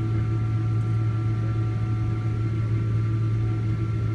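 Steady cabin noise inside a Boeing 777-200ER airliner: a low, even hum with a few thin whining tones held over it.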